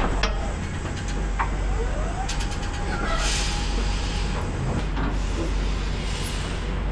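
Semi truck's diesel engine running at low speed during slow backing manoeuvres, with two short hisses of compressed air from the air brake system, about three seconds in and again near the end.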